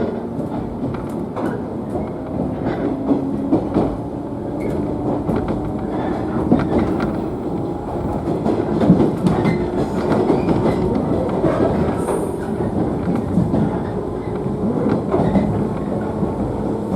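Running noise inside a JNR 113-series electric train at speed: a steady rumble with the wheels clicking over rail joints.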